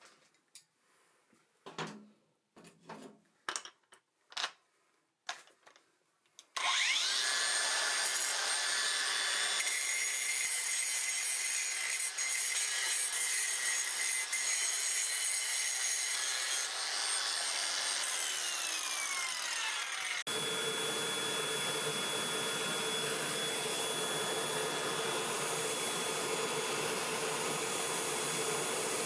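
A few scattered knocks and handling noises, then an electric power tool's motor spins up with a rising whine and runs steadily with an abrasive rushing noise. Near the end its pitch slides down, and the sound switches abruptly to a different steady motor noise.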